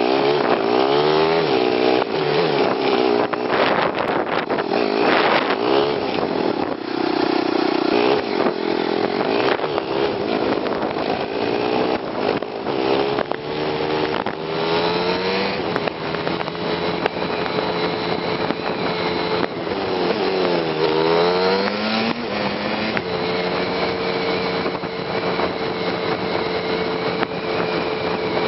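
Kawasaki Estrella's single-cylinder four-stroke engine under way, played back at three times speed so its note is high and sounds like a two-stroke engine. The revs climb and drop again and again through the gear changes, then hold steady for the last few seconds.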